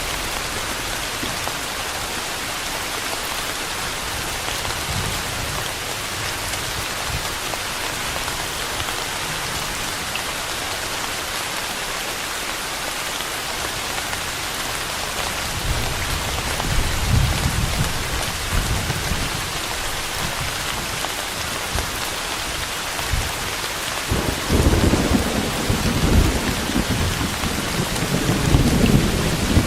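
Steady rain falling, a constant even hiss, with low rolls of thunder rumbling about halfway through and again near the end.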